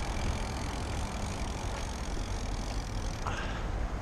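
Steady low rumble of a motor vehicle engine running close by, with road traffic noise.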